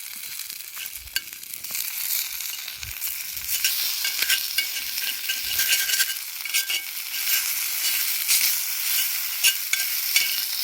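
Food frying in a hot pan over a wood fire: a steady sizzle full of crackles and pops that grows louder about three seconds in. The food is nearly done and a little charred.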